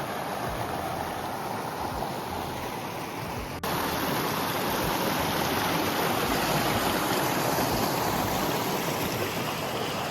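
Mountain stream rushing, a steady, continuous wash of flowing water. There is a sudden break about three and a half seconds in, after which it is somewhat louder.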